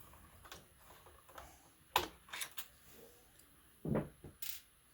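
Scattered small clicks and taps of a screwdriver and plastic laptop parts being handled, the sharpest about two seconds in, then a duller knock about four seconds in.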